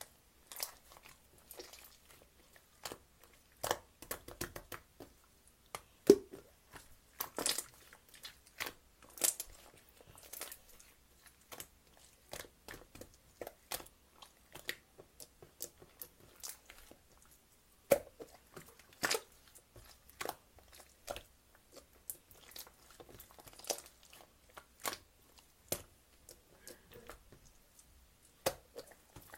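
Irregular close crunching and crinkling: scattered sharp clicks and short crackles, with a few louder snaps.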